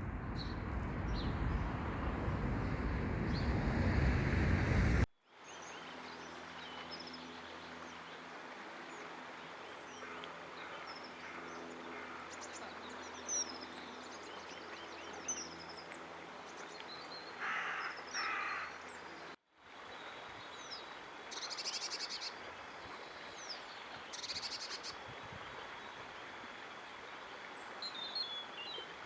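Outdoor ambience in three cut-together shots: first a loud, steady rushing noise, then a quieter background with small birds chirping and two short, harsh crow-like calls about two-thirds of the way through, then more birdsong.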